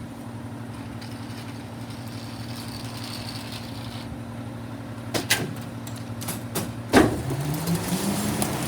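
Garbage truck engine running steadily at idle, with a few clanks and then a loud bang about seven seconds in, after which the engine speed rises.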